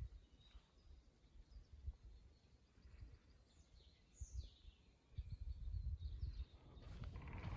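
Faint spring forest ambience with a few short bird calls, each sliding down in pitch, over low rumbling that swells around the middle.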